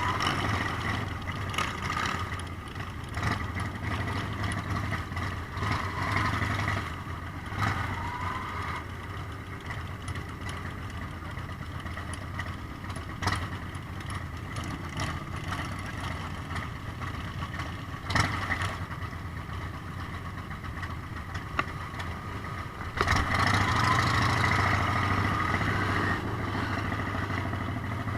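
Motorcycle engines running steadily, with a few short clicks and a louder stretch of engine sound starting near the end.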